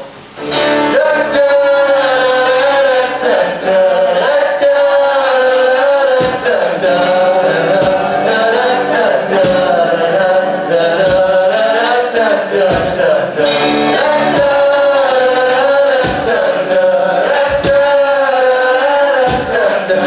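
Live band music kicking in loudly about half a second in: long, held vocal notes sung in harmony over drum hits.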